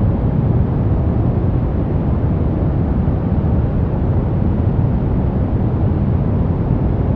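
Steady brown noise: a continuous deep rushing hiss, strongest in the low end and falling away toward the highs, with no changes or events.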